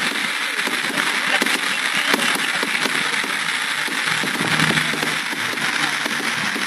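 Fireworks crackling: a dense, continuous crackle of many small rapid pops, steady in loudness.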